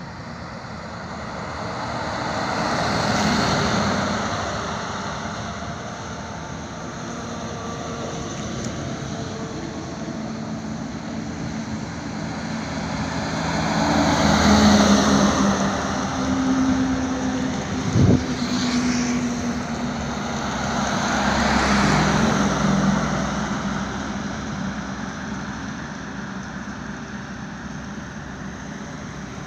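Highway traffic: vehicles, including trucks, pass one after another, their engine and tyre noise swelling and fading three times. A sharp knock comes about eighteen seconds in.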